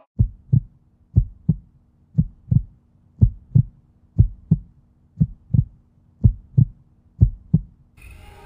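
Heartbeat: eight double thumps, lub-dub, about one a second, over a faint steady hum. Music starts just before the end.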